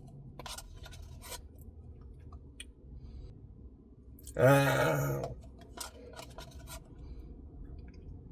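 Eating sounds: scattered sharp clicks and scrapes of a spoon and mouth over a Blizzard, with one loud, short wordless vocal sound, a hum or groan, about four and a half seconds in.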